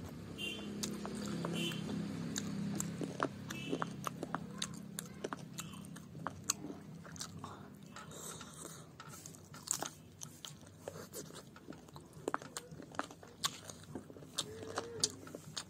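A person eating curry and rice by hand, close to the microphone: chewing and lip-smacking, heard as a quick, irregular series of sharp mouth clicks.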